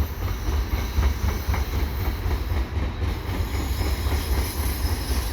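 CN freight cars rolling past on the rails: a steady low rumble with irregular clacks from the wheels.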